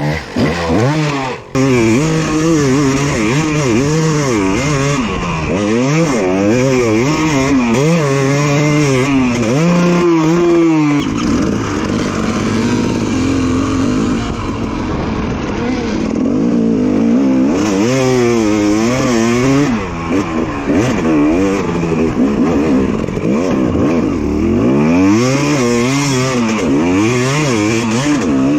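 Two-stroke dirt bike engine revving up and down again and again under a working throttle, with a steadier stretch after about 12 seconds before the swings resume.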